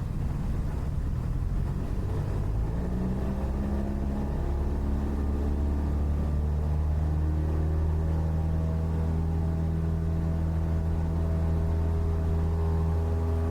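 Cessna 172's piston engine and propeller heard from inside the cockpit, rising in pitch over the first several seconds as power comes up, then holding a steady drone.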